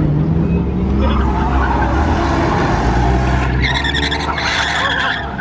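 A car doing a burnout: the engine revs up, then the spinning tyres screech, with the loudest squeal over the last couple of seconds.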